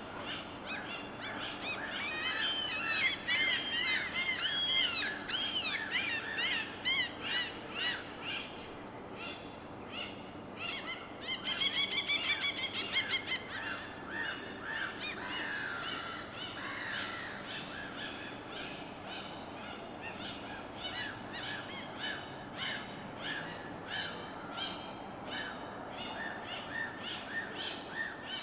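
Birds calling over a steady, even wash of harbor ambience. There are loud arching calls in the first several seconds and a fast chattering run about twelve seconds in, then short repeated chirps for the rest.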